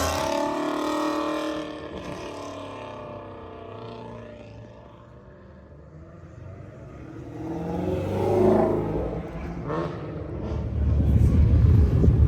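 Car engine sound: a pitched engine note that rises and falls around eight seconds in, then a loud, low engine rumble from about eleven seconds on. A music track fades out over the first couple of seconds.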